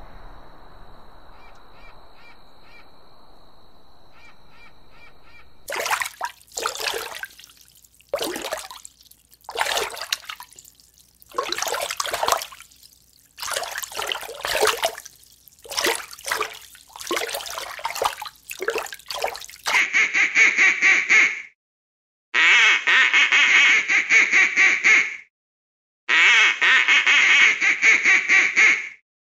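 Bird calls: faint background for the first few seconds, then a run of short, harsh calls. From about twenty seconds in come longer, rapidly pulsed calls of two to three seconds each, cut off abruptly between them.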